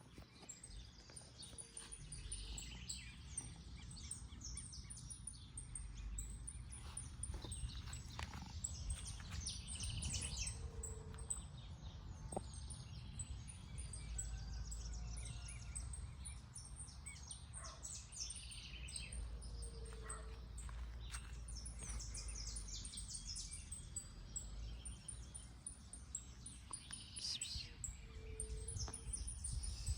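Small birds chirping and twittering throughout over a steady low rumble of outdoor background noise. A short low note sounds about four times, roughly every nine seconds.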